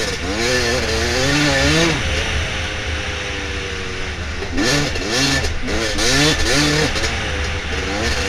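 Dirt bike engine revving up and down repeatedly as the throttle is worked, holding a steady pitch for a couple of seconds midway before revving again, with wind rumble on the microphone underneath.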